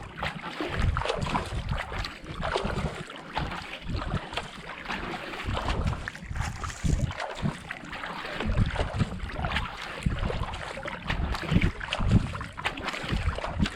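Kayak paddle strokes splashing into the water at a steady racing pace of about 70 to 80 strokes a minute, with water rushing along the hull and wind buffeting the microphone.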